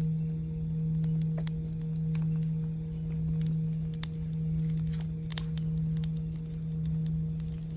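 Singing bowl ringing one long low tone that swells and fades about once a second, with the scattered crackle and pop of a campfire over it.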